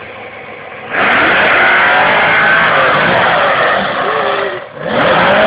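A car revving hard: a loud sound that starts suddenly about a second in, dips briefly near the end and comes straight back.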